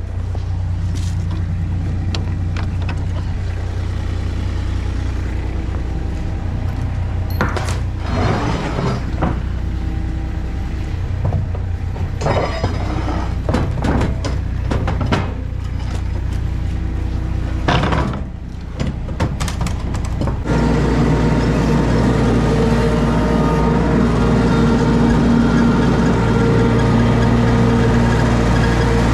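Mini skid steer's engine running, with repeated surges and clunks as it is driven up ramps into an enclosed trailer. About twenty seconds in, the sound changes to a steady engine drone.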